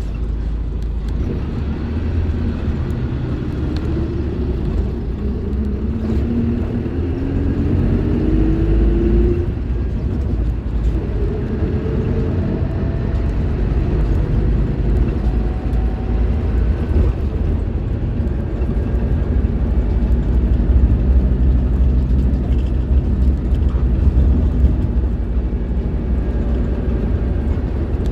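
Scania K310IB bus's five-cylinder diesel engine running under load, its pitch rising for several seconds as the bus accelerates, then running steadily with a deep rumble.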